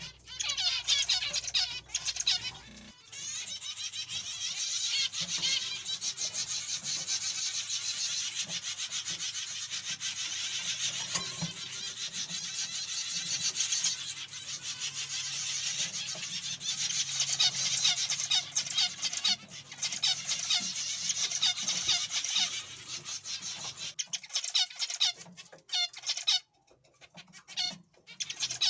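A flock of zebra finches calling and chattering continuously in rapid short notes, thinning to scattered calls near the end.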